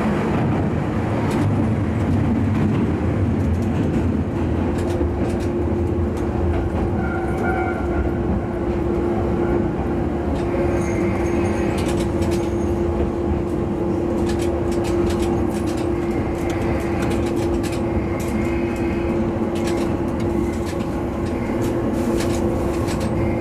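Diesel railcar under way, heard from inside the front of the train: a steady engine and running drone with one held tone, and the wheels clicking now and then over rail joints.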